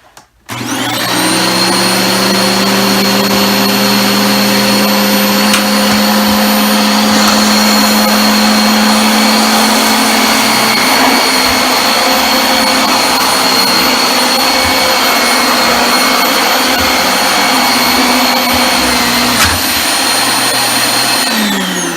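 Freshly serviced Dyson DC25 upright vacuum cleaner switched on about half a second in, its motor whine rising quickly to a steady run as it picks up shredded paper, working properly. It is switched off near the end and the whine falls as the motor winds down.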